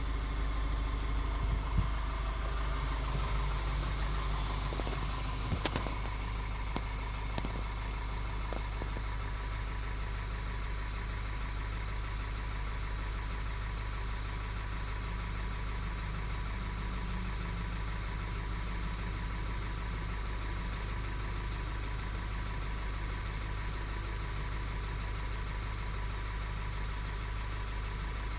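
VW-group 2.0 TSI turbocharged four-cylinder petrol engine idling steadily, with a few sharp clicks or knocks in the first several seconds.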